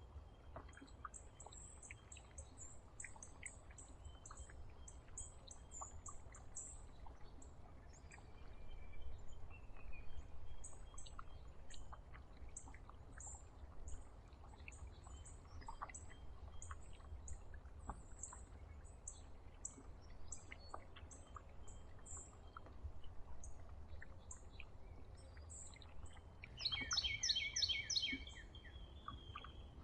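Songbirds around a feeder chirping: many short, high chirps keep repeating, and near the end comes a louder burst of about seven quick notes. A faint low rumble runs underneath.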